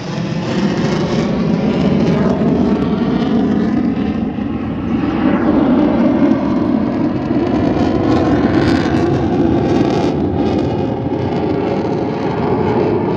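Sukhoi Su-30's twin turbofan engines roaring loudly as the jet makes a slow flyby, with a swirling, phasing sweep to the sound as it passes; the roar swells to its loudest about midway through.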